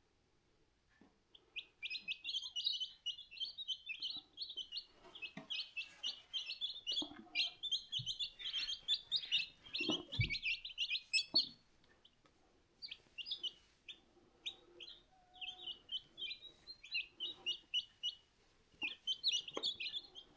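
One-day-old chicks peeping: a dense chorus of short, high peeps that thins out briefly about twelve seconds in and then picks up again. A couple of soft knocks sound around eight and ten seconds in.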